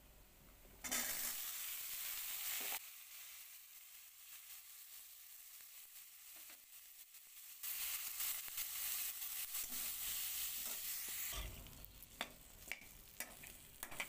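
Sliced vegetable pieces tipped into hot oil in a metal kadai, sizzling loudly about a second in and then settling to a quieter sizzle as a metal spatula stirs them. The sizzling swells again midway, and near the end a few sharp clicks of the spatula against the pan break through.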